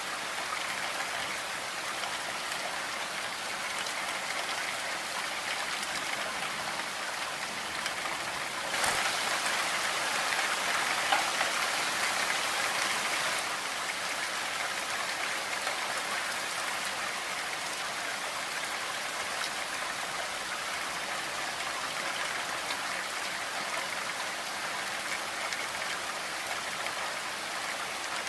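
Steady rain falling, heavier for a few seconds about a third of the way in.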